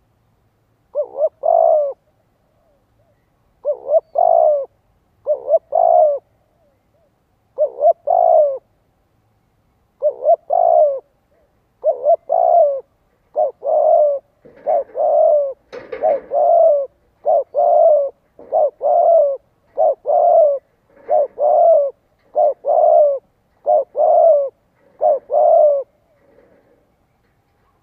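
Spotted dove giving a long run of short, repeated two-part coos. The coos are spaced out at first, then come almost back to back from about halfway through. This is the pressing 'thúc gù' cooing a decoy bird uses to draw wild doves.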